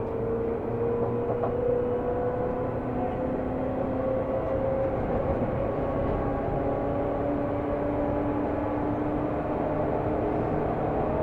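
Running sound inside a Seibu New 2000 series electric commuter train: a steady rumble of wheels on rail, with the traction motor and gear whine rising slowly in pitch as the train gathers speed.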